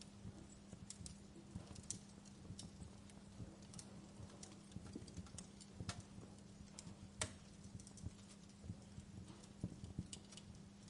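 Wood fire in a fireplace crackling, with irregular sharp pops and snaps and two louder pops past the middle, over a steady low hum.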